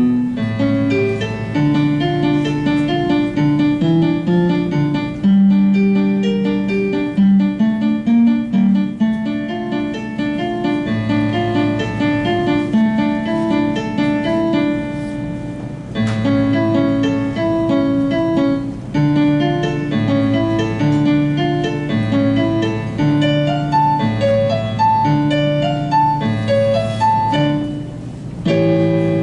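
Solo piano piece: a low bass line moving in steady blocks under a higher melody of repeated notes.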